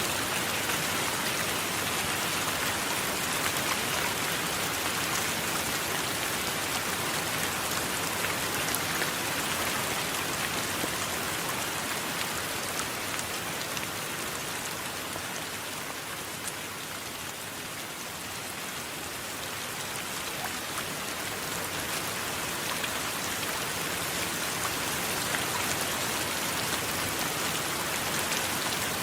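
Steady heavy rain falling, with scattered drop ticks; it eases a little midway, then builds back.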